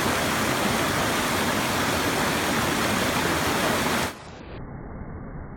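Creek water rushing steadily over rocks. About four seconds in it drops suddenly to a quieter, muffled rush.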